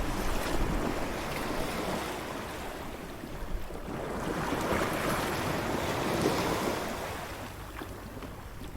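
Beach ambience: waves breaking and washing on the shore, one surge swelling in the middle and ebbing away near the end, with wind rumbling on the microphone.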